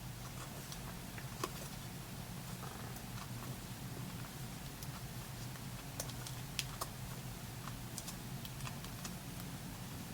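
Trading cards being handled and flipped through, giving scattered faint light clicks over a low steady hum.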